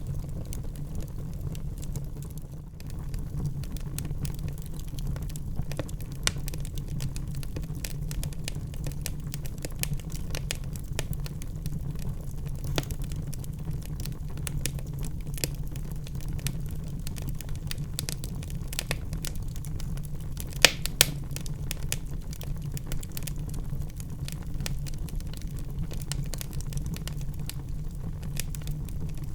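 Wood fire burning in a fireplace: a steady low rumble with constant small crackles and pops, and two louder pops close together about two-thirds of the way through.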